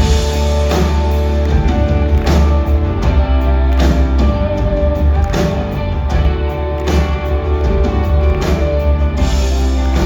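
Live band playing a gospel song's instrumental intro: guitar and sustained chords over a heavy bass, with a drum beat landing about every second and a half.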